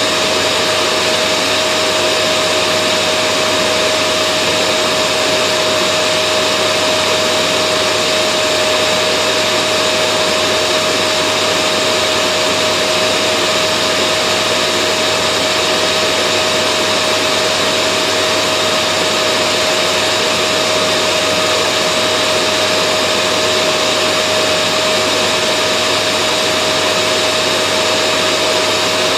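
Vacuum cleaner motor running steadily, a constant loud whooshing hum with a steady whine, used as white noise to soothe babies to sleep.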